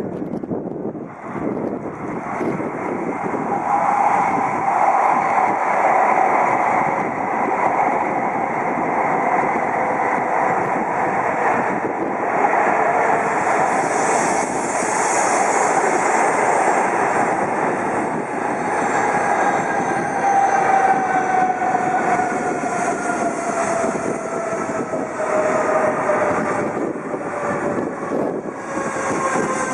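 Shinkansen train running into the station, a loud rush of wheel and air noise. Its motor whine slides steadily down in pitch from about two-thirds of the way through as the train slows.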